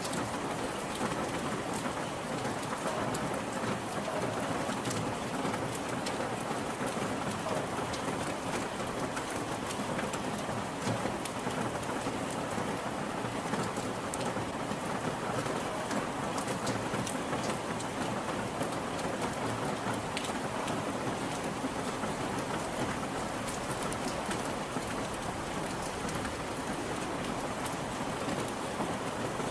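Steady rain falling: an even hiss with many small, sharp drop ticks throughout.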